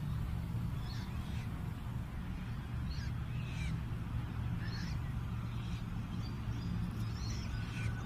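Birds chirping in short, high calls about once a second over a steady low rumble.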